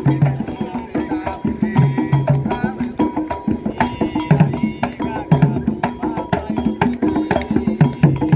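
Candomblé toque: atabaque hand drums played in a fast, steady interlocking rhythm, with a struck agogô bell keeping time and voices singing over it.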